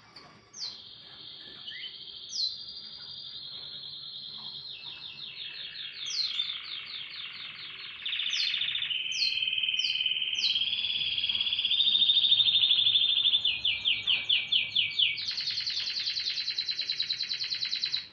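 Domestic canary singing a long, unbroken song of rapid trills. The song switches to a new trill at a new pitch every second or two, with a few sharp downward-swept notes, and grows louder about halfway through.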